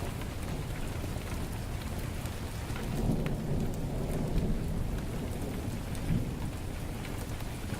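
Heavy rain falling steadily. A low roll of thunder swells about three seconds in and dies away by about five seconds, with another short rumble near six seconds. Faint crackling clicks from a wood fire are scattered throughout.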